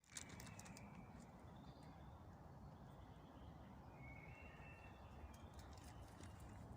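Faint birdsong: short whistled notes and a quick run of clicks near the start, over a low steady rumble.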